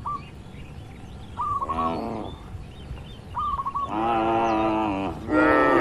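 Cattle mooing: a short moo about two seconds in, a long level moo about four seconds in and another near the end. Between the moos a bird calls the same short chirping phrase again and again.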